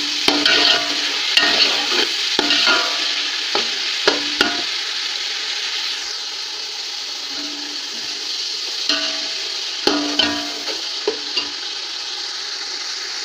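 Onion, tomato and green chilli masala sizzling in hot ghee in a metal pot, cooking down with a splash of water until the tomatoes mash. A metal spoon scrapes and clinks against the pot as it stirs, in a run of strokes over the first few seconds and again about two thirds of the way in.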